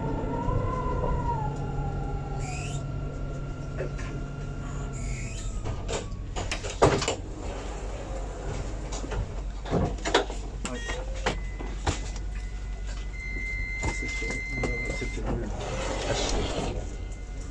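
Alstom Citadis 402 tram slowing to a stop, its motor whine falling away over the first few seconds. Then come several clunks from the doors and a steady electronic tone lasting about two seconds.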